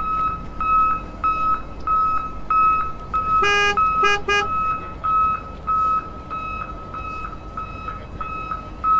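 Electronic beeping on one high pitch, repeating about one and a half times a second. A few seconds in it is joined by three short horn toots.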